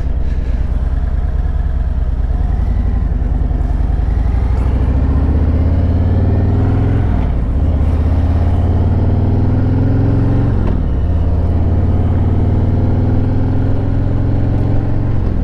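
Harley-Davidson Road Glide's Milwaukee-Eight 114 V-twin engine pulling under way, rising in pitch as it accelerates, with sharp drops about seven and ten and a half seconds in as it shifts up a gear, then running steady at cruising speed.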